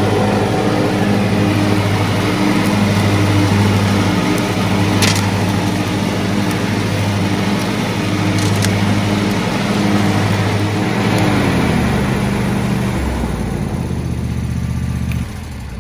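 John Deere D155 riding mower engine running steadily, then dropping in speed about eleven seconds in and falling away sharply near the end.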